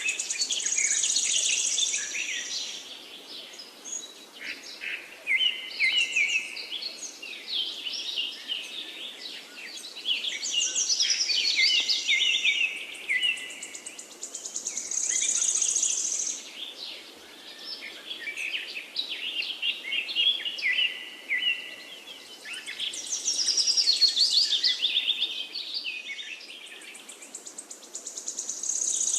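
Several wild birds singing at once, their chirping phrases overlapping and repeating. A high, bright phrase recurs every several seconds over a faint background hiss.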